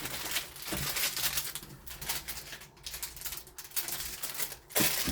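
Small hardware being handled: plastic fixing-pack bags rustling and crinkling, with irregular light clicks of small parts.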